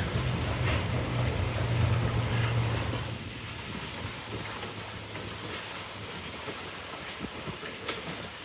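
Hurricane rain falling steadily, a constant hiss, over a low steady hum that drops away about three seconds in. A sharp click near the end.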